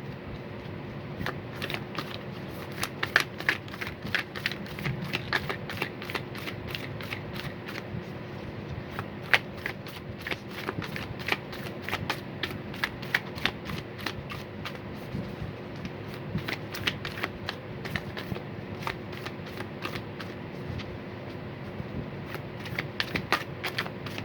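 A deck of oracle cards being shuffled by hand: a long, unbroken run of quick, irregular card clicks.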